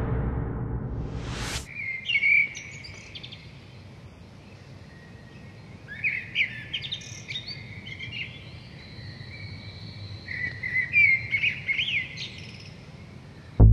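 Recorded birdsong, clusters of quick high chirps and trills about 2, 6 and 11 seconds in, over a faint outdoor background. It opens with a synthesized whoosh fading away and a short rising swoosh that cuts off under two seconds in.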